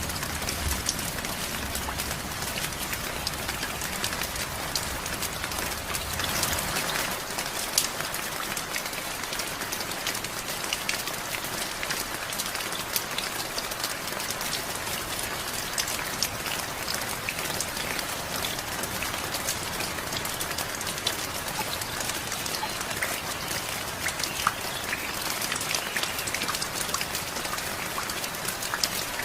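Steady rain falling, with many individual drops ticking on a hard surface. A low rumble underneath fades out about seven seconds in.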